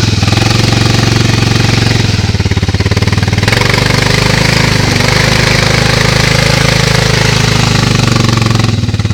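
A quad bike (ATV) engine running hard at high revs, with a fast, even pulse, and easing off just before the end. It is the sound of a quad trying to pull out of a muddy puddle, its wheels spinning and throwing mud.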